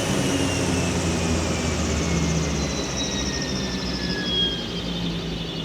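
Seaplane's turbine engine spooling down after shutdown: a high whine that falls steadily in pitch over a low hum, slowly getting quieter.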